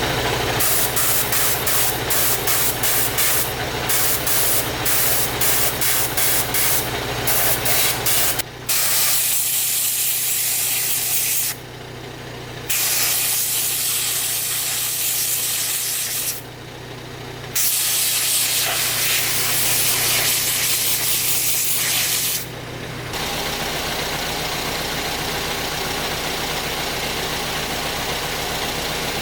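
High-pressure spray hissing, first in many short bursts about one or two a second, then in three longer blasts of several seconds each, over a steady machine hum. The spraying stops about six seconds before the end, leaving only the hum.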